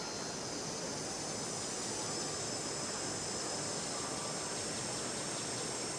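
Steady chirring of insects in a continuous high band, over an even background hiss.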